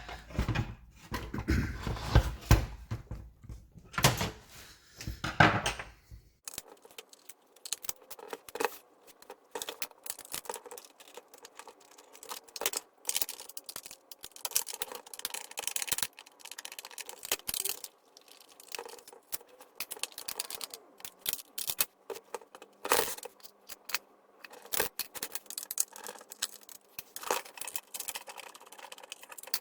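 Irregular clicks, taps and light knocks of a Dyson DC39 barrel vacuum cleaner's plastic housing and screws being handled as it is unscrewed and pulled apart, with heavier handling knocks and thumps in the first six seconds.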